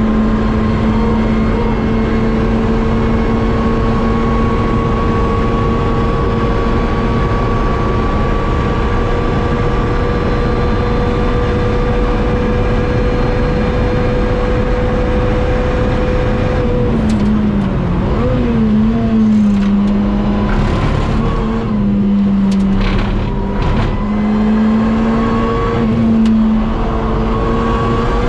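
Lotus Exige S's supercharged engine under full throttle in a high gear, its pitch climbing slowly for about sixteen seconds. It then drops and wavers through downshifts under braking, with a few sharp clicks, and rises again near the end as it accelerates. The car is down on power because oil from a torn shaft seal has fouled the supercharger belt.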